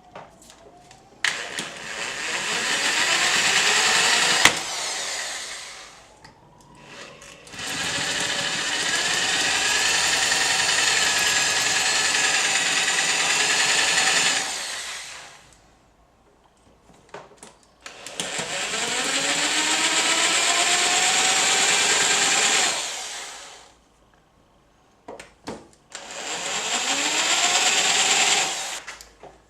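Angle grinder run in four long bursts, each spinning up with a rising whine and then grinding steadily on metal before winding down, with short clicks and knocks in the pauses between runs.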